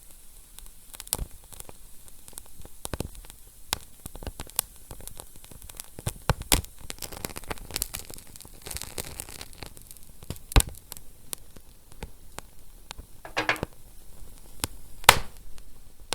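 Wood fire crackling: a constant run of small, irregular pops and snaps over a low hiss, with two louder pops, one about ten seconds in and one near the end, and a brief hiss shortly before the last.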